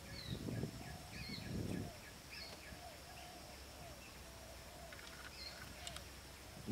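Birds chirping and calling in short, repeated notes over a faint, steady high buzz. In the first two seconds there are low rustling, scraping noises.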